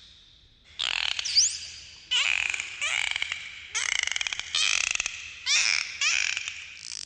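Dolphins calling underwater: a string of short bursts of rapid clicks and buzzing pulses mixed with brief rising whistles, starting about a second in.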